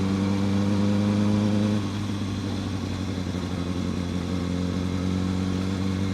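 Kawasaki ZX-6R sportbike's inline-four engine running at a steady speed. About two seconds in, its note gets quieter and duller.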